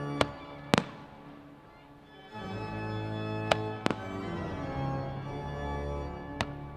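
Organ music playing with held chords, dipping quieter for a moment about two seconds in. Sharp firework bangs cut through it: two near the start, two in the middle and one near the end.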